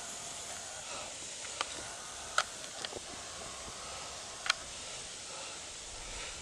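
Faint steady outdoor background hiss, broken by four brief sharp clicks.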